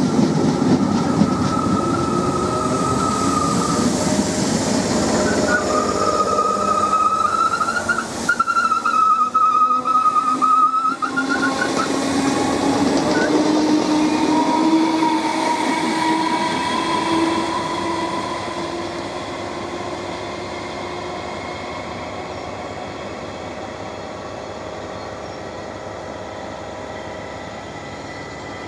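Great Northern Class 313 electric train passing close by: steady wheel-on-rail noise with a high, steady tone for much of the pass. It fades away over a few seconds after about seventeen seconds, leaving a quieter steady rumble.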